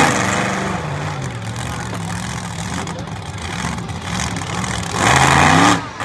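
Monster truck engine running and revving, its pitch rising and falling as the throttle is worked. There is a loud burst at the start and a harder, louder rev about five seconds in.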